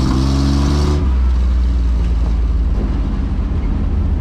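Truck engines running loud at an enduro race. One engine holds a steady high note and stops about a second in, leaving a steady low rumble.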